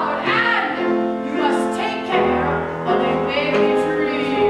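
Music: a voice singing over piano accompaniment.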